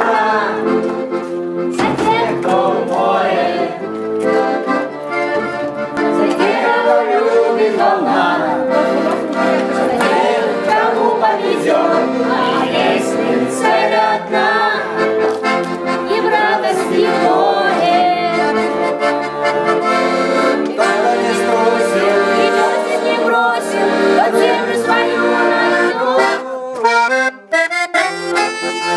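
Accordion playing a song, with voices singing along.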